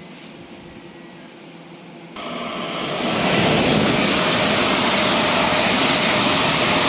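Two coupled Class 387 electric multiple units passing through at speed, a loud rushing noise of wheels on rails and air. It sets in suddenly about two seconds in and builds over the next second to a steady loud rush.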